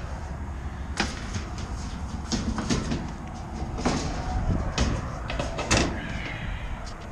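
Sheet-metal access panels of a rooftop heat pump being handled and fitted back on, with several clanks and knocks, the sharpest about a second in and again around four to six seconds in.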